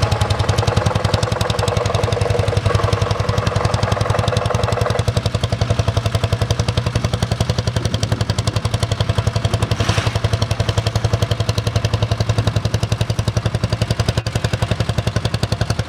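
1950 Lanz Bulldog's single-cylinder two-stroke hot-bulb engine working hard under load while pulling a sled, firing in a rapid, very even beat. A steady higher whine runs under it for the first five seconds.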